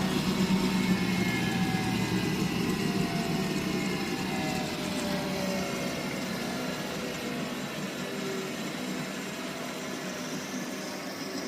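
Miele W423 washing machine running with its drum spinning, the motor's whine slowly falling in pitch and the low hum easing off as the spin winds down.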